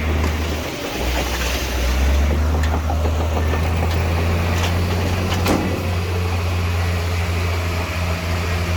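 Heavy earthmoving machinery's diesel engine running steadily with a deep low hum, with a few sharp metallic knocks in the middle.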